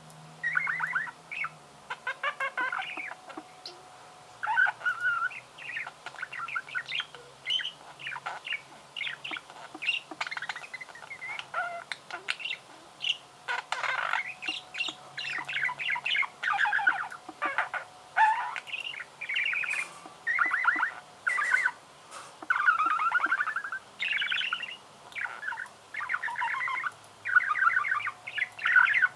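Budgerigar warbling: a long run of rapid chattering and chirping phrases with short pauses between them, mixed with harsher squawky notes.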